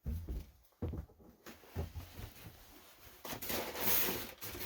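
Footsteps on old wooden floorboards, thudding roughly once a second, then a longer scraping, rustling noise about three seconds in, like debris or a shoe dragging across the boards.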